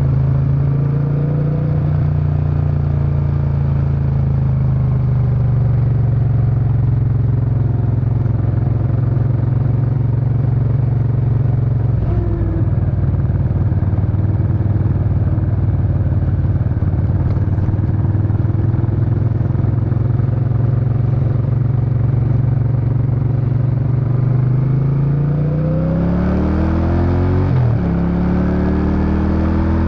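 Suzuki Intruder VS800's V-twin exhaust while riding, cruising at a fairly steady engine speed. Near the end it accelerates: the pitch climbs, drops sharply as it shifts up a gear, climbs again and drops once more.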